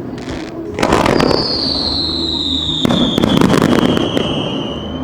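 Fireworks bursting overhead: a sharp bang about a second in, then a dense run of crackling pops around three to four seconds. A long whistle slides slowly down in pitch through the second half.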